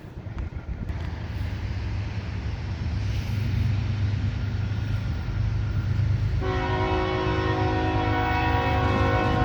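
CSX rock train's diesel locomotives rumbling louder as they approach, then the locomotive's air horn sounding about six and a half seconds in: a chord of several tones held to the end.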